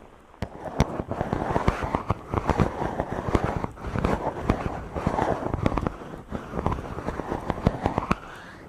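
Fingers rubbing and stroking directly on a microphone: a dense, crackling scratch that swells and fades with each stroke, over and over.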